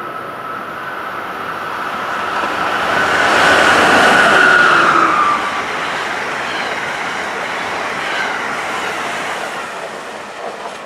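Electric passenger train passing at speed. The rush of it builds to its loudest about four seconds in, with a high whine that drops in pitch as it goes by, then fades to a steady rumble.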